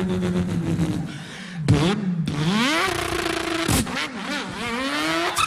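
A man imitating a car engine with his voice: a steady engine drone, then the revs climbing in rising glides, each cut off sharply as if shifting gear, about three times.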